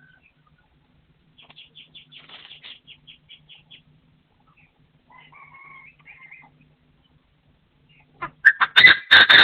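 Partridge calling: a quick series of short rapid notes, a second two-part call a few seconds later, then a much louder burst of calls with sharp flapping-like strokes near the end.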